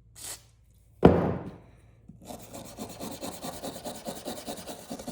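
Hand wire brush scrubbing back and forth on a steel pocketknife blade to take off rust and corrosion, at about five quick strokes a second, starting about two seconds in. Before it there is a short scratch and a single sharp knock, the loudest sound.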